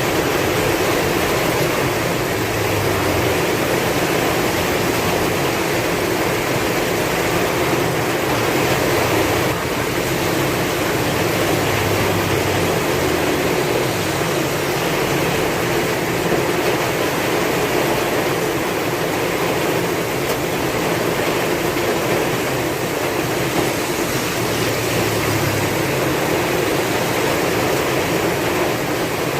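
Heavy rain pouring steadily with strong wind, an even dense hiss over a low rumble that swells and fades.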